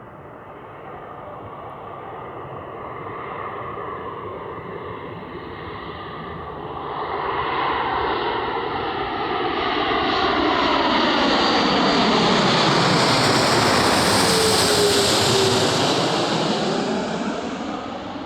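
Airbus A330-300 airliner with Rolls-Royce Trent 700 jet engines on landing approach, passing by. Its engine noise builds steadily and is loudest about two-thirds to three-quarters of the way in, with a falling whine as it goes past, then fades.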